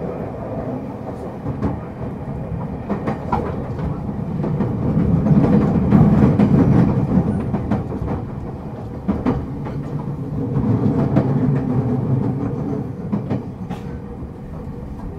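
Tokyo Waterfront Railway 70-000 series electric train running, heard from on board: a steady rumble of wheels on rail with scattered sharp clicks over rail joints, swelling louder twice.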